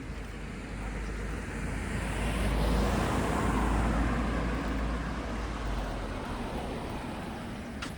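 A motor vehicle driving past on the street, its engine and tyre noise swelling to a peak about halfway through and then fading away. A short sharp click comes just before the end.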